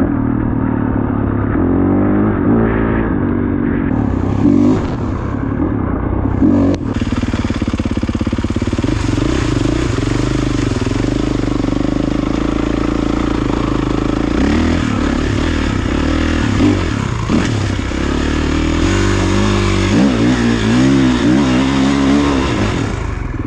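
Kawasaki KX450 motocross bike's single-cylinder four-stroke engine running under riding load, its pitch rising and falling as the throttle is worked. A sharp knock comes about seven seconds in.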